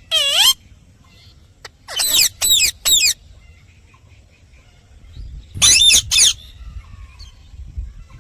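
Indian ringneck parrot giving short, high-pitched squawking calls that bend in pitch. There is one at the start, three quick ones about two seconds in, and a pair near six seconds.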